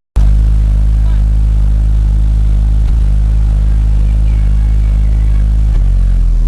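Car engine running steadily with a deep, even hum; the low tone shifts slightly near the end.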